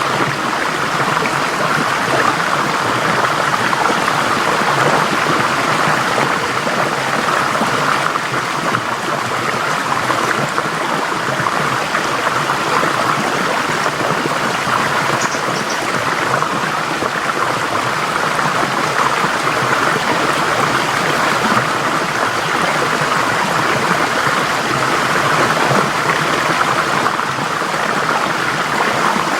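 Forest stream flowing over rocks: a steady, even rush of water with no breaks.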